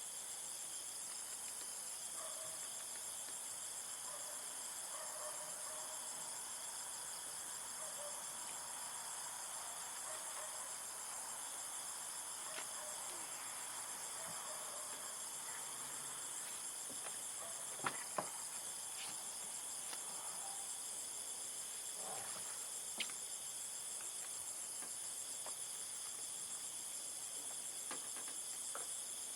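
A steady, high-pitched chorus of insects such as crickets, with two sharp clicks in quick succession just past the middle and another a few seconds later.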